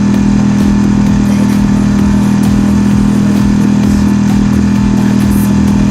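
Marlin 5 hp four-stroke outboard motor running at a steady speed, an even drone that holds one pitch.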